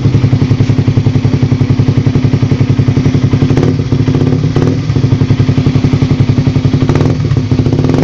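Suzuki Raider 150's single-cylinder four-stroke engine idling steadily through a gutted (kalkal) exhaust pipe with the catalytic converter removed: a loud, evenly pulsing exhaust note.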